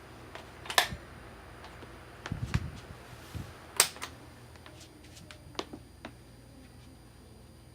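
Mid-1980s Galaxy table fan running with a low hum, broken by a few sharp clicks and a short low knock, the loudest clicks about one second and four seconds in.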